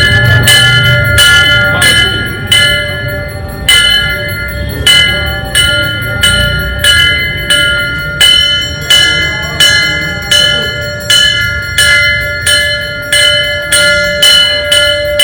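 A Hindu temple bell being rung by hand during puja, struck over and over at a steady pace of about two strokes a second, each stroke ringing on with the same clear metallic tones.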